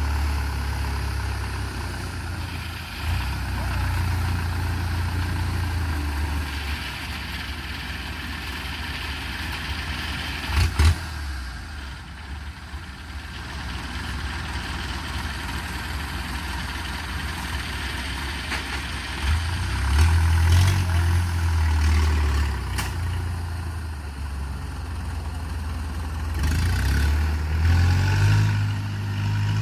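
Engines of harvest machinery in a rice field running, swelling and easing off, with a sharp knock about eleven seconds in and an engine pitch rising near the end.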